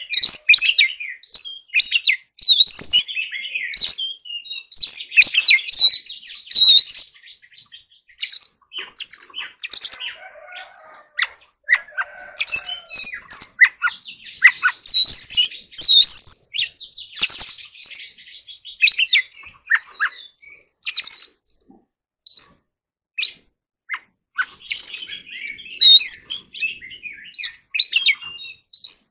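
Oriental magpie-robin singing: a long run of short, varied, high-pitched whistled phrases and chirps, thinning out briefly about two-thirds of the way through before picking up again.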